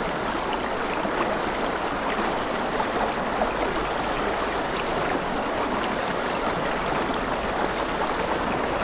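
River water flowing and splashing steadily, with many small splashes and drips scattered through it.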